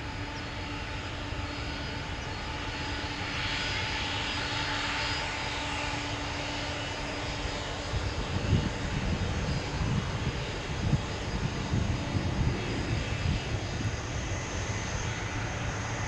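Airliner jet engines heard passing overhead, a steady rushing noise with a thin engine whine, the hiss brightening a few seconds in. In the second half an uneven low rumble with irregular peaks takes over.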